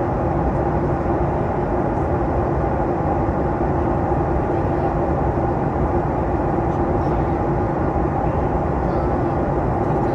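Steady in-flight cabin noise of a Boeing 737 MAX 8: engine and airflow rush with a constant two-note hum.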